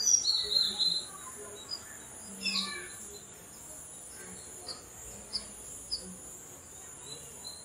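Birds chirping: short, high calls, a louder cluster at the start, a falling call about two and a half seconds in, and single chirps every half second or so after that, over a steady high hiss.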